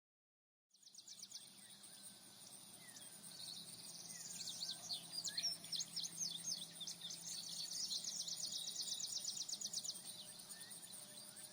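Rapid high chirping and trilling calls, like a bird chorus, over a steady high buzz like insects, starting after a moment of silence.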